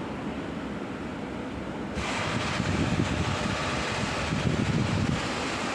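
2005 Nissan Pathfinder engine running, a steady mechanical noise; about two seconds in a louder hiss joins it and holds.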